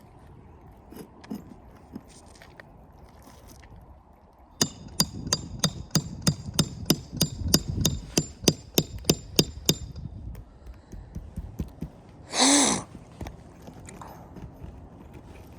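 A hammer striking in a quick series, about three blows a second for some five seconds, each blow with a bright metallic ring, as in tearing off roof shingles and nails. A single short, loud pitched call comes near the end.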